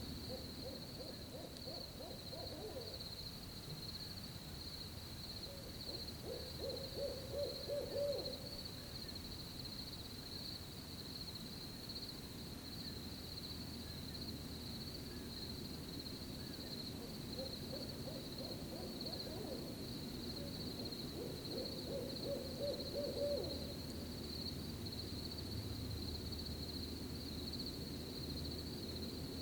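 An owl hooting: a pair of hoot series in the first eight seconds and another pair around the middle to two-thirds of the way through. Crickets chirp steadily and high-pitched underneath the whole time.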